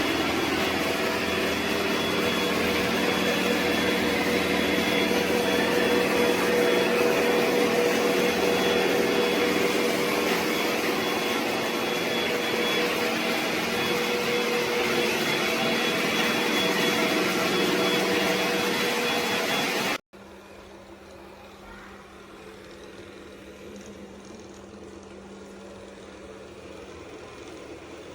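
ECOVACS DEEBOT X9 Pro Omni robot vacuum-mop running: a loud, steady whir with a high whine over it. It cuts off suddenly about 20 seconds in, leaving a much fainter steady hum.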